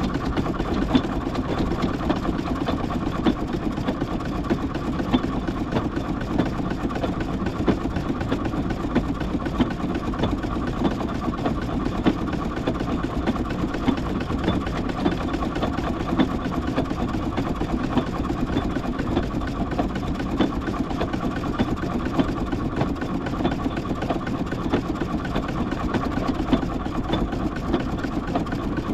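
A steam traction engine running steadily as it is driven along, with small sharp peaks every second or two over its steady working sound.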